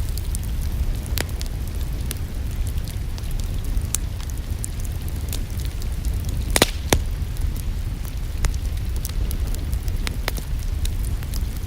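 Wood fire crackling in a fireplace: scattered sharp pops and snaps, the loudest a double pop a little past halfway, over a steady low rumble.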